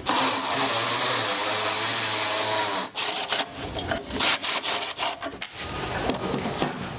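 A power tool runs steadily for about three seconds and cuts off, followed by scattered knocks and rattles of parts being handled.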